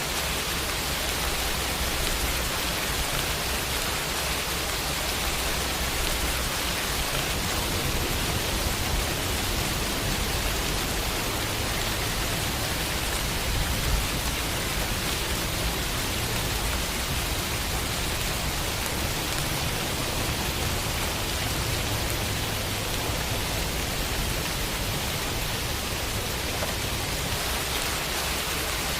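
Steady summer rain falling on a window, a dense even patter with no breaks.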